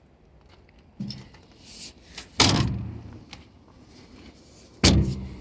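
Two loud slams of a van's sheet-metal door, about two and a half seconds apart, with a knock and some rattling before the first.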